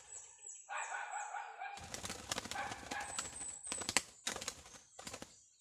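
A bird's wings flapping and rustling in quick fluttery strokes, stopping shortly before the end, with a thin high chirp repeating throughout.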